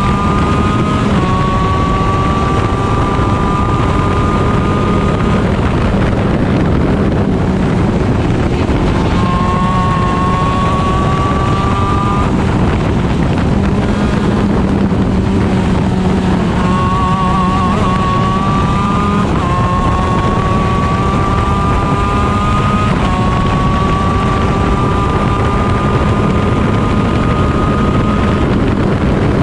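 Onboard sound of a 125 shifter kart's stock Honda two-stroke engine at racing speed. Its pitch climbs steadily through each gear and drops sharply at quick upshifts, and it backs off twice for corners before pulling hard again.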